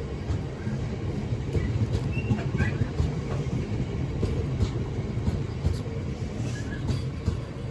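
A train running on the line, a steady low rumble with scattered faint clicks from the wheels and track.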